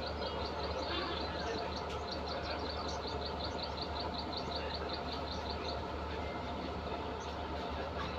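Steady low running of a diesel locomotive idling while the train stands at the station, with a bird giving a rapid run of high, evenly repeated chirps that stops about six seconds in.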